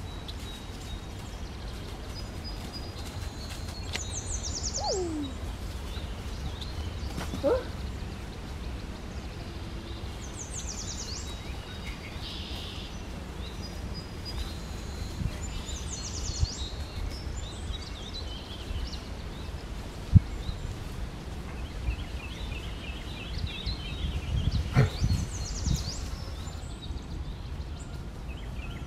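Woodland birds singing: short high trills repeated every few seconds, over a steady low rumble. About twenty seconds in there is a single sharp knock.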